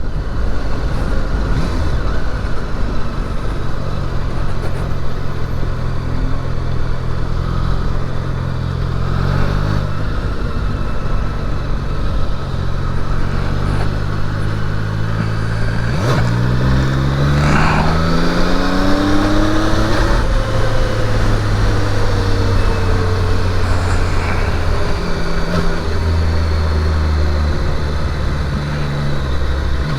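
Triumph Daytona 660's three-cylinder engine pulling the bike along. About sixteen seconds in, its pitch rises steeply for several seconds, then falls away as the bike slows.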